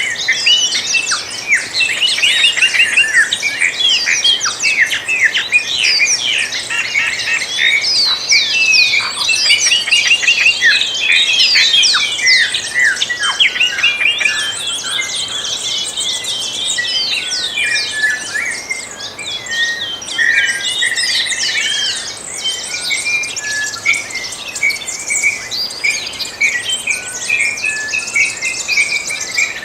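A dawn chorus of many songbirds singing at once: dense overlapping chirps, trills and short whistled notes, busiest in the first half and thinning somewhat later on.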